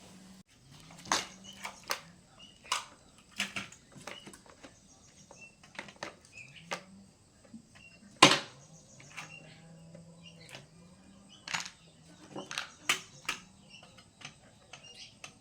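Irregular clinks and knocks of hand tools and engine parts being handled, about a dozen over the stretch, with the loudest knock about eight seconds in.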